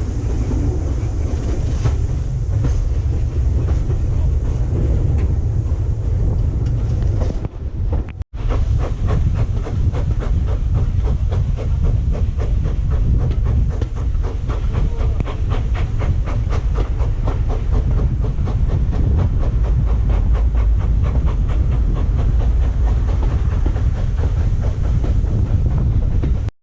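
Railway train running, with a heavy low rumble and a fast, even clicking of wheels over the rail joints, steadiest after a brief cut about eight seconds in.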